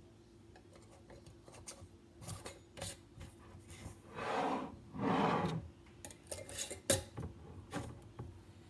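Metal screw bands being twisted down onto glass canning jars: scattered light clinks of metal on glass and two longer rasping scrapes of the ring threads, about four and five seconds in.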